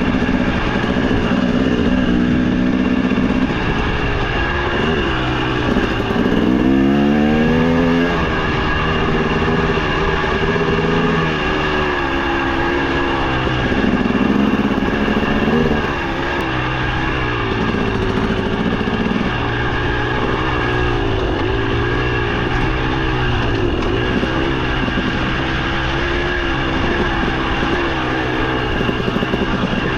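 Dirt bike engine under way on a trail, its pitch rising and falling as the throttle is worked, with a quick run up in revs about six to eight seconds in.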